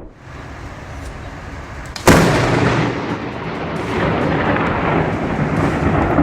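A sudden loud crack of thunder from a close lightning strike about two seconds in, rolling on as a long rumble until it cuts off near the end.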